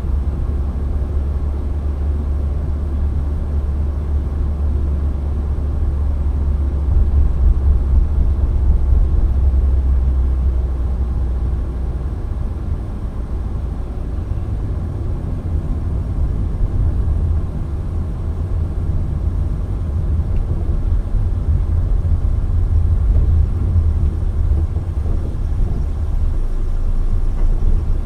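Steady low rumble of a moving car's engine and tyre noise, heard from inside the car, swelling and easing slightly as it drives.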